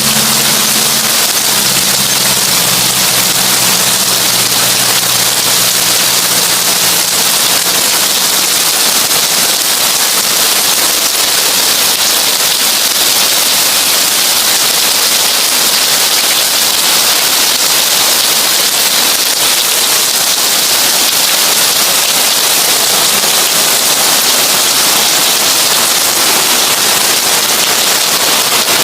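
Heavy rain drumming on a tin roof, a dense, steady crackling patter of drops on metal. A low steady hum under it fades out over the first several seconds.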